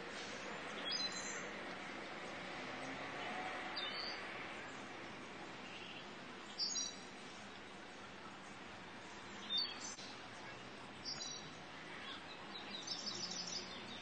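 Short, high-pitched bird chirps every two to three seconds, with a quick run of notes near the end, over a steady background hiss.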